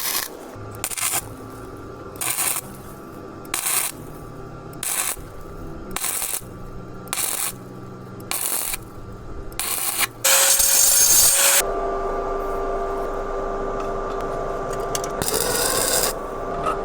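An electric welder tack-welding an exhaust pipe: a series of short crackling bursts about once a second, then a longer weld run of a second or two, with a steady hum between them.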